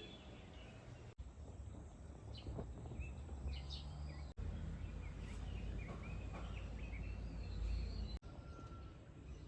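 Small birds chirping now and then over a low, steady rumble, broken by sudden cuts between shots.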